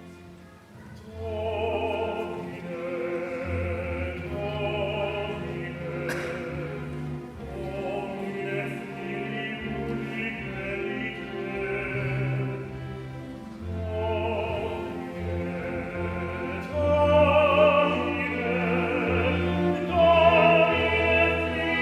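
Classical sacred music: a solo singer holding long notes with vibrato over a chamber orchestra with strings, entering after a brief hush about a second in. A brief click about six seconds in.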